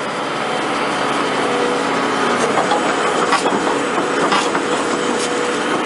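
Heavy machinery running steadily, with scattered metallic clanks and knocks.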